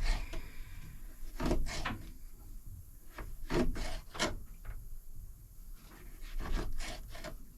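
Knife cutting raw peeled potatoes into fries on a cutting board: irregular knocks as the blade goes through the potato and strikes the board.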